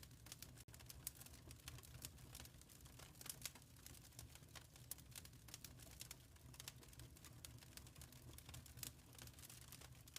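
Faint wood fire crackling, with irregular sharp snaps and pops several times a second over a steady low rumble.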